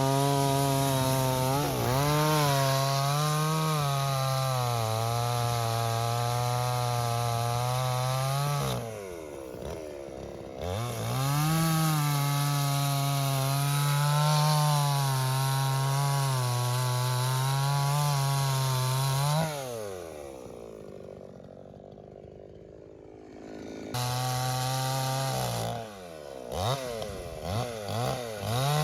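Chainsaw sawing wooden posts, its engine note wavering as it bogs under load in the cut. It eases off twice, about a third of the way in and again after two-thirds, then comes back suddenly at full speed.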